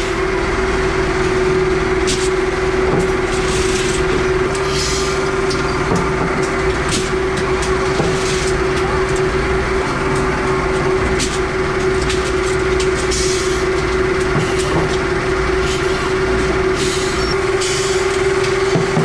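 A workshop machine running steadily with a constant hum, with scattered sharp clicks and knocks.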